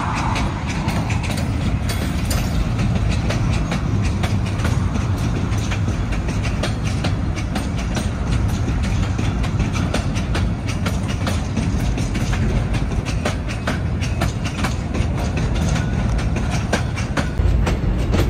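Freight train of hopper wagons rolling slowly past: a steady low rumble of wheels on rail with many irregular clicks, knocks and clanks from the wheels and couplings.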